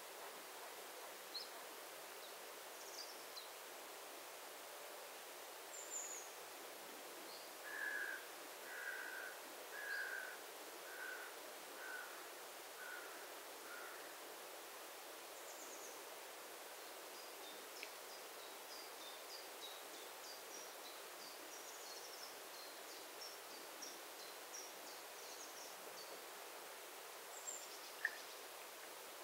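Wild birds calling over a faint, steady outdoor hiss: a run of about seven evenly spaced mid-pitched notes that grow fainter, then a long stretch of high, quick chirps. A single sharp click sounds near the end.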